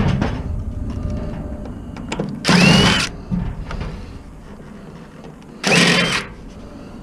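Power drill or driver run in two short bursts about three seconds apart, its motor whine rising and falling in each, while electronics are taken apart for scrap.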